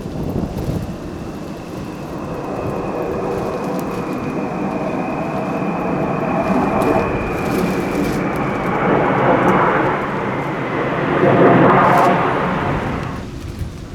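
Military jet aircraft flying over, its engine noise swelling as it passes, with a high whine that slowly falls in pitch; it cuts off suddenly near the end.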